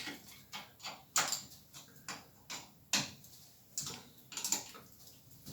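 Light metal clicks and taps from hand tools and steel parts being handled on a lathe's vertical-slide vice, about a dozen at uneven intervals, during a check that the vice has stayed in line.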